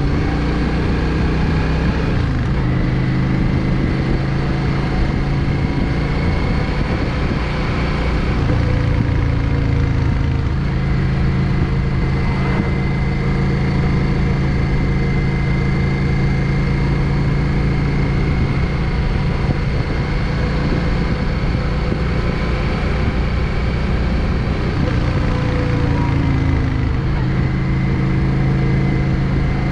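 Yamaha XVS 650 Drag Star's air-cooled V-twin running steadily under way on the road, its pitch shifting a little about eight seconds in and again near the end.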